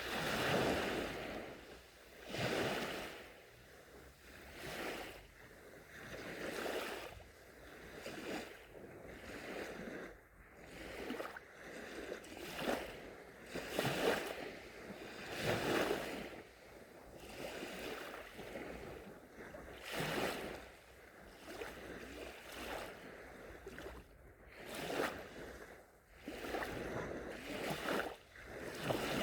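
Gentle sea waves breaking and washing onto the shore, surging and ebbing every couple of seconds.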